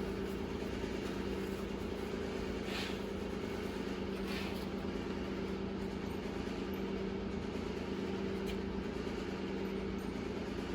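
Steady machine hum at a fixed pitch, with two faint short scrapes about three and four and a half seconds in.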